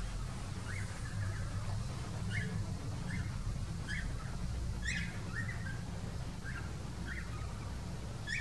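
Bird chirping: about ten short, sharp chirps scattered over several seconds, a couple of them sweeping up high, over a low steady rumble.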